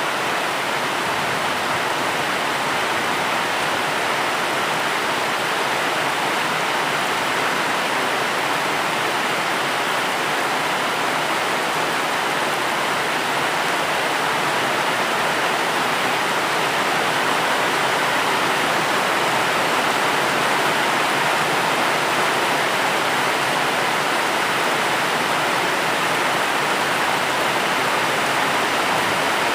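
Steady rain: an even, unbroken rushing hiss with no single drops or other events standing out.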